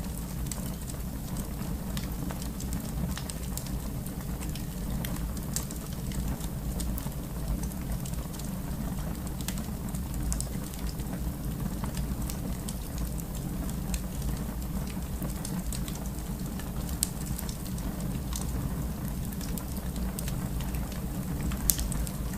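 Wood fire burning in a fireplace: a steady low rumble of flames with scattered crackles and small pops, and a sharper pop near the end.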